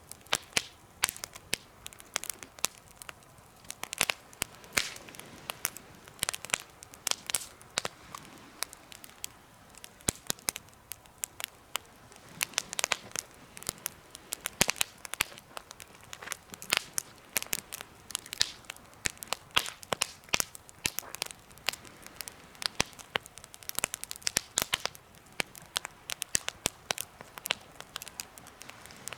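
Campfire burning in a homemade fire stand, crackling steadily with irregular sharp pops and snaps over a faint hiss.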